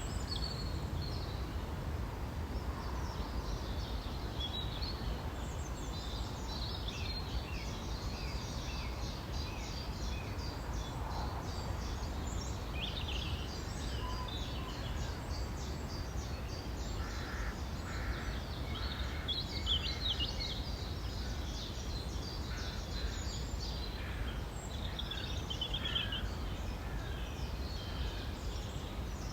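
Several songbirds singing at once in a spring dawn-chorus style, with overlapping chirps and trills, over a steady low background rumble.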